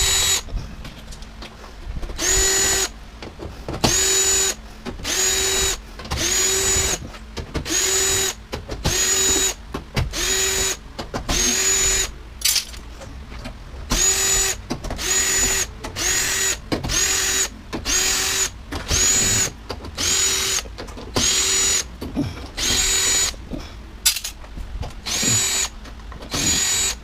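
Power drill spinning in about twenty short bursts, each under a second, with a steady motor whine, as screws are driven out of the washer/dryer cabinet.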